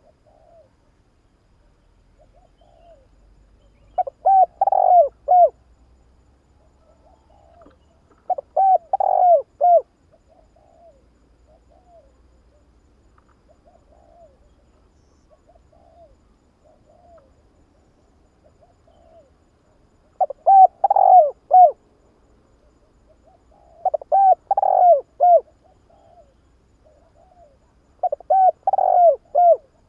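Spotted dove singing: five loud cooing phrases, each a quick run of several notes, with softer short coos between them.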